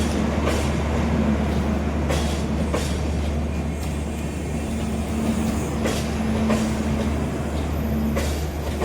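Passenger express train rolling past: a steady low rumble with irregular sharp knocks as the wheels cross rail joints.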